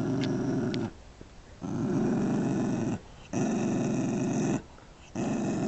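Rat terrier growling low, in four long growls of about a second each with short pauses for breath between them: possessive growling over a brick he is guarding.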